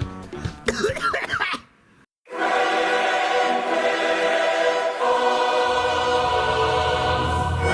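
Choral music: a held chord of singing voices that starts suddenly about two seconds in, after a brief moment of near silence. Before the gap, voices are heard for a second or so.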